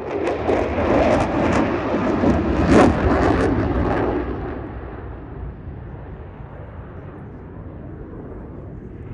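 Aircraft flying past during an airshow display: a loud engine roar with crackling that builds, peaks about three seconds in, then fades to a distant rumble.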